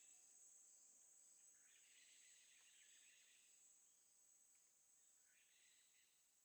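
Near silence: a faint rainforest ambience bed with a steady high insect drone and soft hissy swells, fading out about two thirds of the way through.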